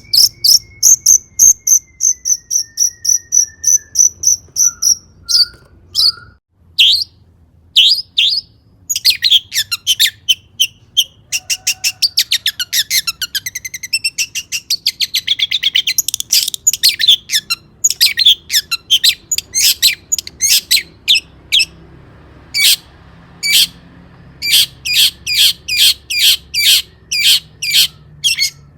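Long-tailed shrike singing loudly: sharp, high notes repeated several times a second, with a fast rattling run in the middle before the even, repeated notes return.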